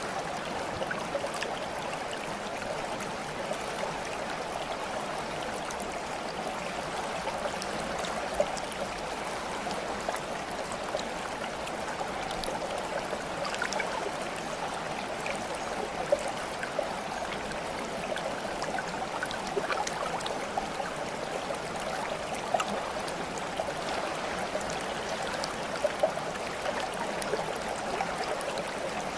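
Steady running water, like a flowing stream, with small trickles and splashes scattered throughout.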